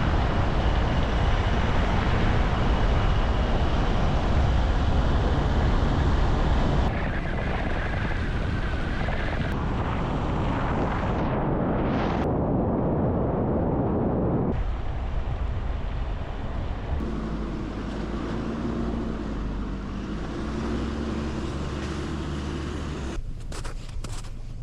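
Strong wind rushing and buffeting the microphone, a steady low rumble with hiss above, changing abruptly several times.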